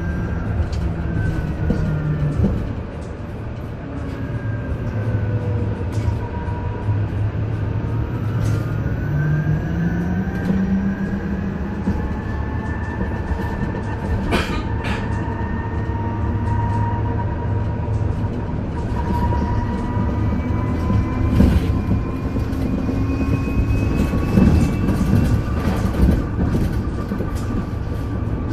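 Isuzu Erga EV electric bus running, heard from inside the cabin: the electric drive's whine glides up and down in pitch with the bus's speed over a steady rumble of road noise. There are a few sharp clicks or rattles near the middle and toward the end.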